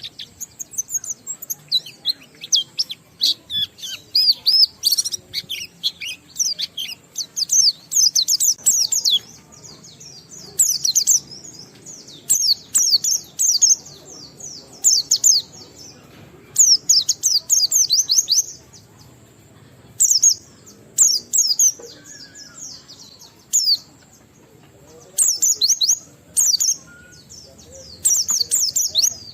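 White-eye (pleci) singing in rapid, high twittering phrases of a second or two each, separated by short pauses.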